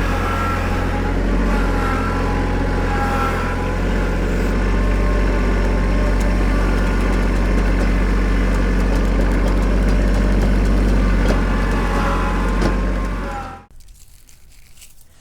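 Excavator engine running steadily under load, with higher wavering squeaks and creaks of metal over it. It stops abruptly near the end.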